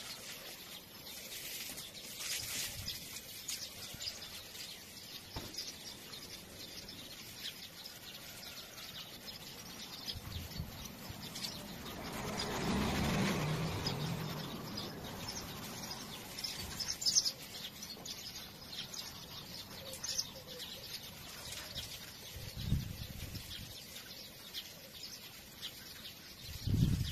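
Small birds chirping on and off, with a broad rushing swell that builds and fades about halfway through and a soft thud near the end.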